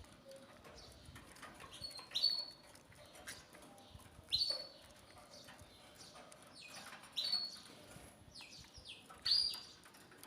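Canaries calling: four loud, high chirps about two seconds apart, each a short high note that drops away sharply, over faint steady ticking and pattering.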